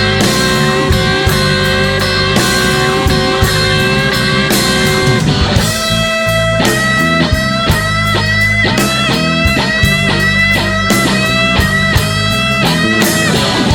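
Blues band playing an instrumental passage: a lead guitar solo over bass and drums. From about halfway, a run of quick notes, many of them bent up in pitch.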